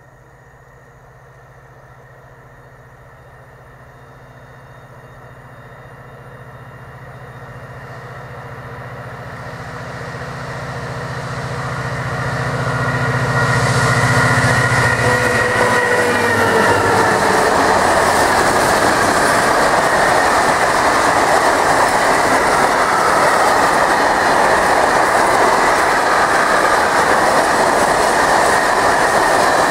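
HŽ Cargo class 2062 diesel-electric locomotive approaching, its engine drone growing steadily louder, then passing about halfway through with a drop in pitch. After it, a long freight train of open wagons rolls past loudly and steadily.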